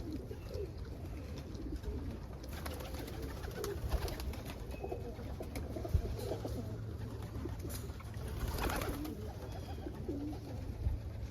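Many domestic pigeons cooing continuously in a loft, low overlapping calls that rise and fall.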